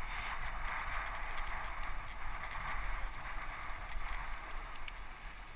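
Steady rush of wind and tyre noise from a bicycle ridden at speed on a wet forest track, with small clicks and rattles from the bike; it eases off near the end.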